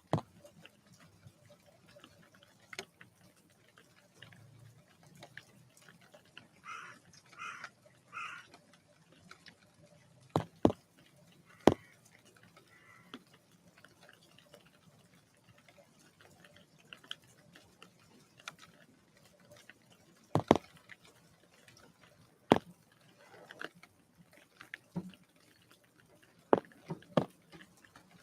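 Birds at a feeder: scattered sharp taps and knocks, some in quick pairs, from birds landing and pecking. Three short harsh bird calls come in a row about seven seconds in.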